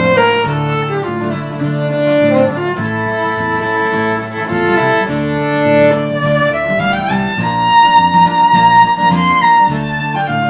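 A band playing an instrumental passage, with a fiddle lead over guitar. The lead slides up into a high held note about seven seconds in.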